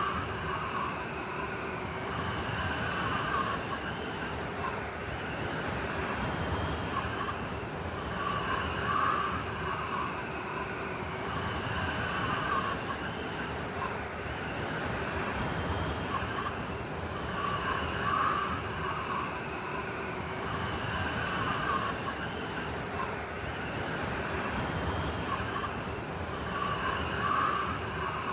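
Blizzard wind howling over a steady rush of noise, with gusts that swell in a pattern repeating about every nine seconds.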